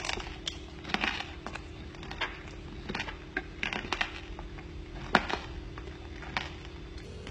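A person chewing a mouthful of grilled Thai-style pork: irregular mouth clicks and smacks, one every half-second or so, over a faint steady hum.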